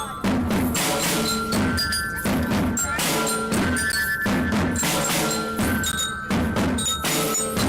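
Indonesian Naval Academy marching band playing: a steady drumbeat with a bright, bell-like mallet melody over it.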